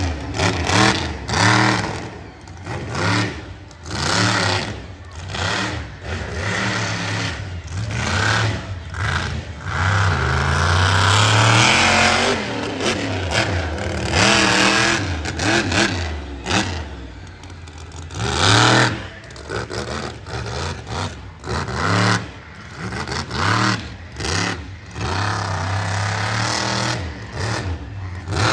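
Monster truck's supercharged V8 engine revving hard, its pitch climbing and falling again and again as the truck is driven, with sharp knocks scattered through.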